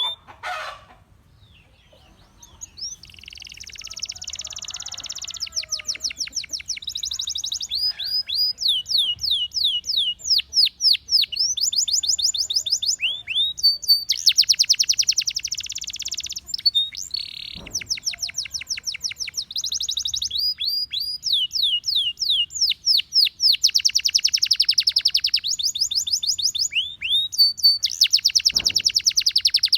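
Gloster canary singing, starting after a short pause of about two seconds, in a long unbroken run of fast repeated falling notes and rolling trills that change every second or two.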